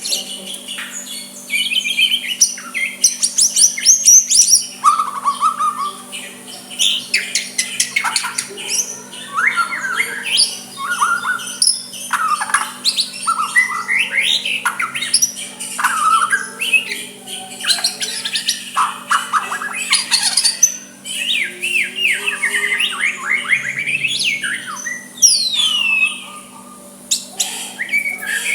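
White-rumped shama singing a soft, varied song: a continuous run of quick chirps, whistled notes and fast rising and falling phrases broken by short pauses.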